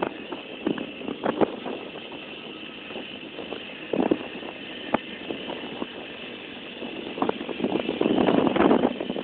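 Minsk two-stroke motorcycle running, with louder surges about four seconds in and again from about eight seconds in.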